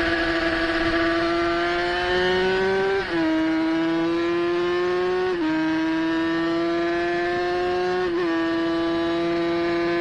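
350cc racing motorcycle engine heard from on board, accelerating up through the gears. The revs climb steadily and drop sharply at three upshifts, about three, five and a half and eight seconds in.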